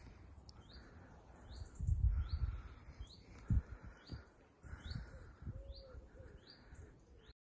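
A small bird calling outdoors: short, high, downward-slurred notes repeated roughly every half second to second, with low rumbles on the microphone around two seconds in. The sound cuts off abruptly just before the end.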